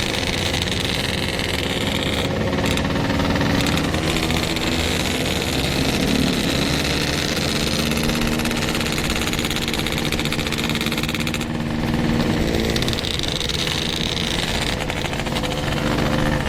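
Yamaha RX-King two-stroke single-cylinder motorcycle engine running on the move at a light, fairly steady throttle, its pitch shifting a little now and then.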